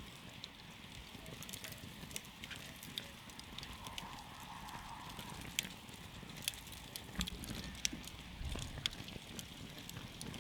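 Wood campfire crackling: irregular sharp pops and snaps over a soft steady hiss and low rumble of the burning wood.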